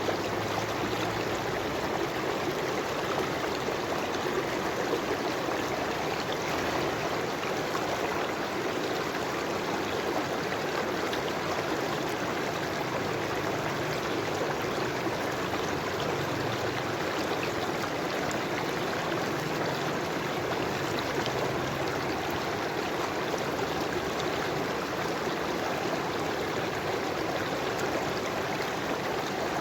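River water flowing and trickling over stones in a steady, even rush.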